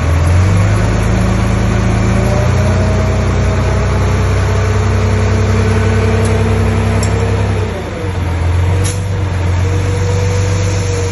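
Heavy diesel engine of earth-moving machinery running steadily. It dips briefly about eight seconds in, then picks up again.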